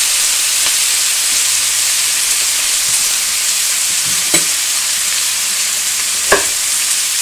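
Halved Brussels sprouts and bacon sizzling steadily in hot bacon grease in a stainless steel skillet. A few short clicks sound over the sizzle, the sharpest about six seconds in.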